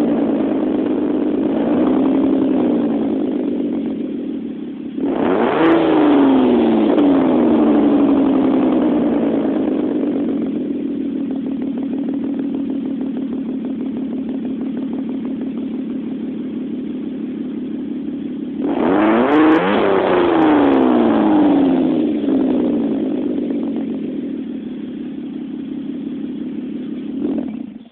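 2006 Dodge Stratus SXT 2.7L V6 running through a cat-deleted 2.5-inch headers-back custom exhaust with a resonator and custom muffler. It idles and is blipped twice, about five seconds in and again near two-thirds of the way through. Each time the pitch jumps up and falls back to idle.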